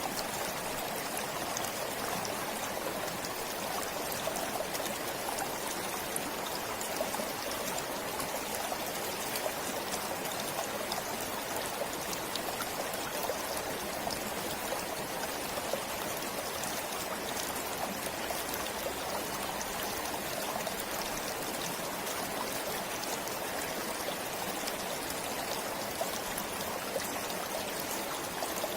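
Water of a small stream flowing and trickling steadily, with a fine splashing patter.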